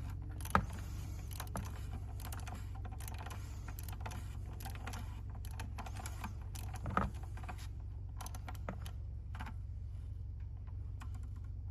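Sparse light clicks and taps of the cartridge oil-filter cap being threaded onto its housing on a Jeep Pentastar 3.6 L engine and snugged up by hand, with a sharper click about half a second in and a knock about seven seconds in, over a low steady hum.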